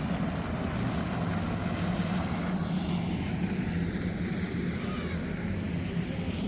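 A steady, low engine drone with a constant hum, from a passing vehicle or aircraft.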